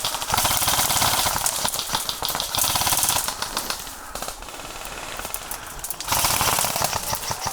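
Airsoft rifle firing on full auto in two bursts: a long one of about three seconds, then a shorter one about six seconds in, with fainter firing between them.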